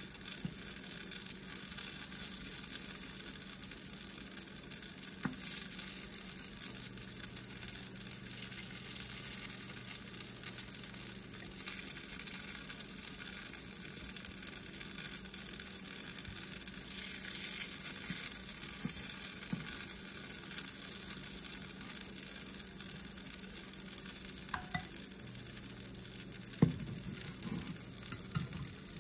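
Green onion pancake batter sizzling in oil in a nonstick frying pan, a steady high hiss, with a few sharp clicks of a metal spoon against the pan, the loudest about five seconds in and near the end.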